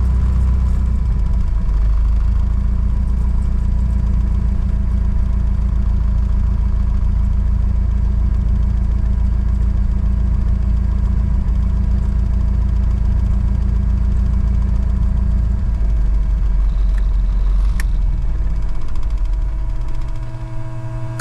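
Mooney M20J's four-cylinder Lycoming engine running at low power with a steady low drone, easing off near the end.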